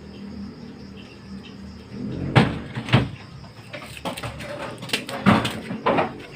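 A series of sharp knocks and clacks of hard objects being handled or struck, four of them loud, after a low steady hum.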